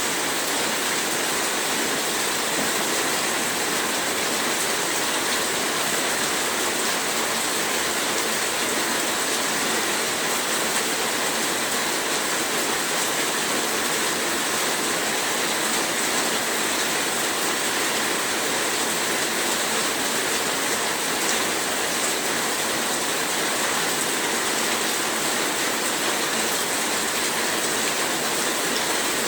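Heavy rain falling steadily, a dense, even hiss with no distinct drops or thunder.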